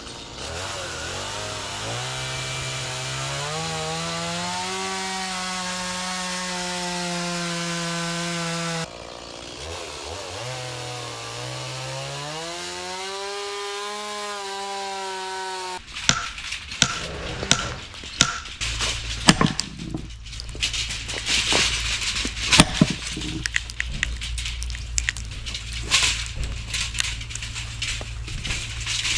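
A Stihl chainsaw revving up to full throttle and holding there, then, after a break, revving up again. In the second half come many sharp, irregular cracks and knocks over a low steady hum.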